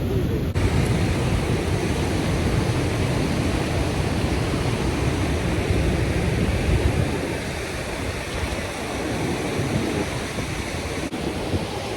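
A waterfall rushing: a steady, dense sound of falling water, heavy in the low end.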